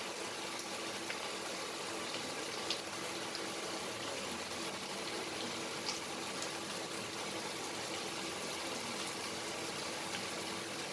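Sliced onions and whole spices frying in hot mustard oil in a steel pan, a steady sizzle, with a couple of light clicks from a wooden spatula stirring.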